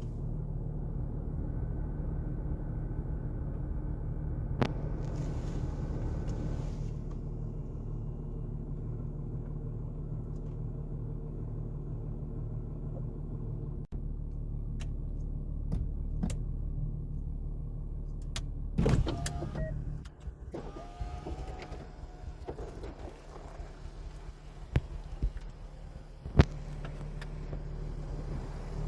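The Jaguar F-TYPE S's supercharged 3.0-litre V6 idling steadily. About two-thirds of the way through there is a brief louder stir, after which the idle settles lower and quieter. Near the end there are a few sharp clicks.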